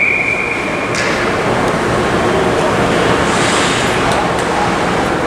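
Referee's whistle blast at an ice hockey game, a single steady high tone lasting about a second at the start, followed by a steady rush of rink noise.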